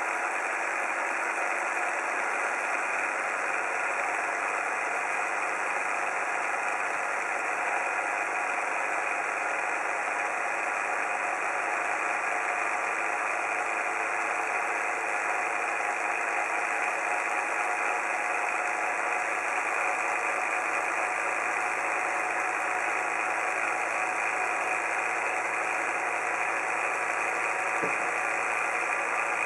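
Miniature 90-degree Vee-twin hot air engine, with cast iron pistons in an aluminium block and a ball-race crankshaft, running smoothly. Its steady mechanical running sound holds an even, unchanging pitch.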